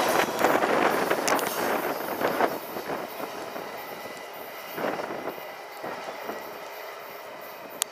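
Steel wheels of an intermodal freight train clattering over the rails as its last car goes by, the noise fading quickly as the train moves away, with a few scattered clacks. A single sharp click near the end.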